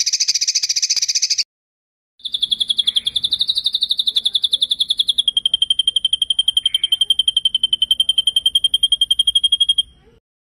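Songbird trilling for masteran training: a short buzzy trill, then after a brief pause a long, fast rolling trill of about twelve notes a second. The long trill steps slightly lower in pitch about halfway through and stops suddenly near the end.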